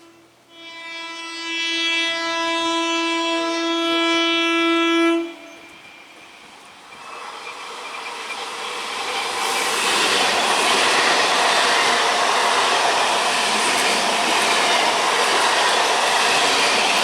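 Train horn sounding one long steady blast of about five seconds, then a train approaching and passing at speed, its wheel and rail noise building up and then holding loud.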